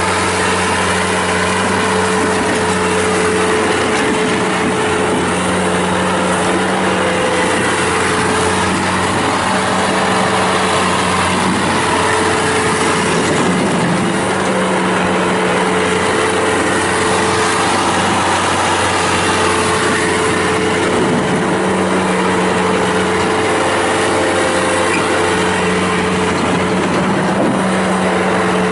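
Kubota diesel engine of a Bobcat T190 rubber-track skid steer loader running steadily at working speed, with a higher whine that rises and falls over it as the machine is operated.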